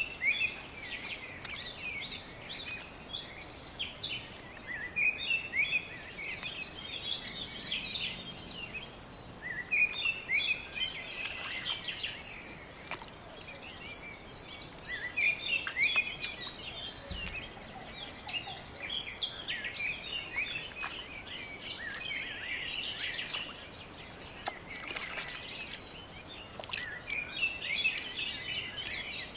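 Small birds chirping, with many short, high chirps coming in bursts every few seconds over a faint background hiss.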